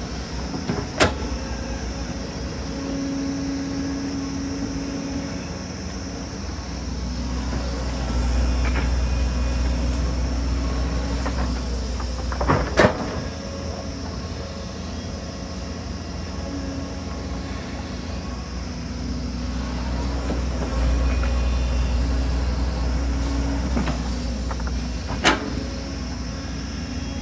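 Hydraulic excavator's diesel engine running steadily, growing louder twice as it comes under load. Three sharp knocks stand out: about a second in, near the middle, and near the end.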